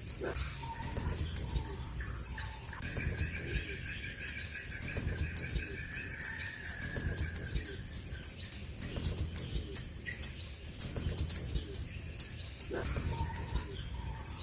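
Crimson sunbird calling: rapid, sharp high-pitched chips, many a second, repeated without a break.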